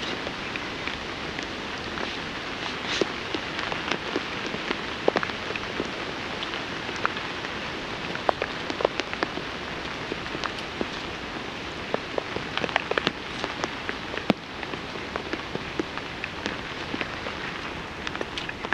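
Steady rain falling on a tarp shelter and the woodland around it, with many scattered sharp taps throughout.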